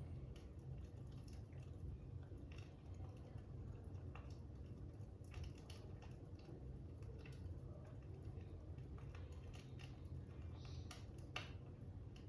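Faint crackling fire: scattered small pops and clicks over a low steady rumble, with one sharper pop shortly before the end.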